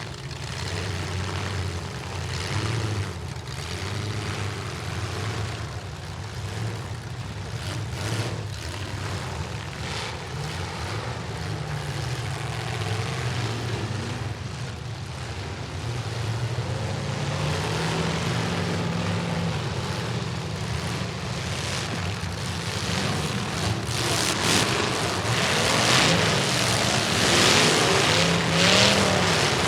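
Several demolition derby trucks' engines running and revving, their pitches rising and falling over one another. The noise grows louder near the end.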